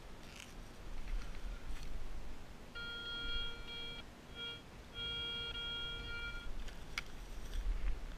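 Metal detector giving its steady, pitched target tone three times: about a second and a half, a short blip, then another second and a half. A low rumble runs under it, and a sharp click comes near the end.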